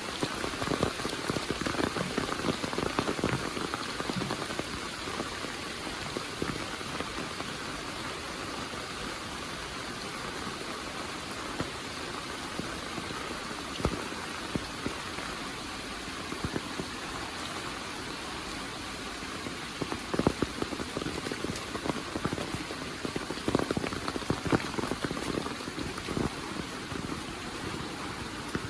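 Heavy monsoon rain falling with a steady hiss. A few louder, sharp drop hits stand out around the middle and again near the end.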